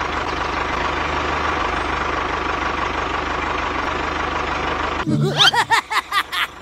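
Mini tractor's engine running steadily for about five seconds, then cutting off abruptly. It is followed by a quick run of short, chirping sweeps up and down in pitch.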